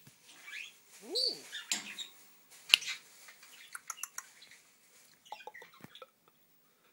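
African grey parrot making a string of short chirps, whistles and clicks: an arching whistled note about a second in, a sharp loud click a little before three seconds, then a run of small clicks and chirps.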